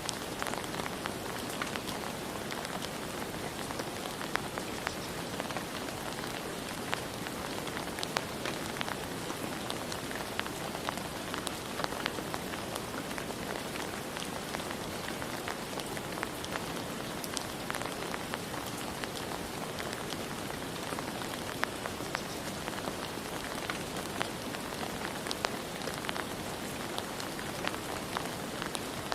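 Steady rain falling, an even hiss with many scattered individual drops ticking out above it.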